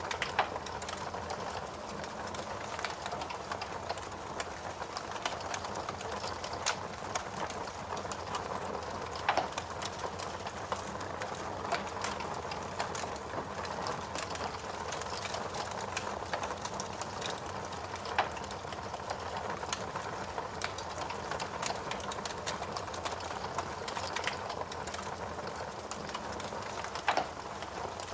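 Wood fire burning in a fireplace: a steady rushing hiss of flames with frequent sharp crackles and pops.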